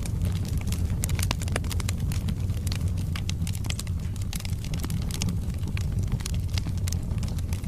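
Wood fire burning in a fireplace: a steady low rumble of the flames with many irregular crackles and pops from the burning logs.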